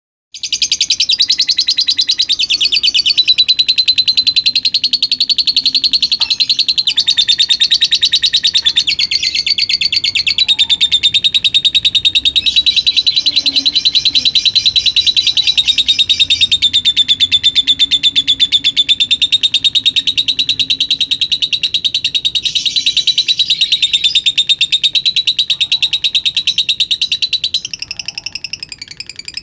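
Lutino lovebird singing a long, unbroken 'ngekek': a very rapid, high-pitched chattering trill that carries on with hardly a break and grows weaker near the end.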